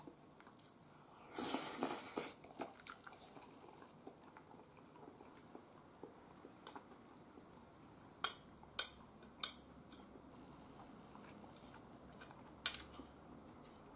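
Quiet chewing of a mouthful of curry rice, with a short loud breathy rush about a second and a half in. A metal spoon clicks against the bowl three times in quick succession past the middle and once more near the end.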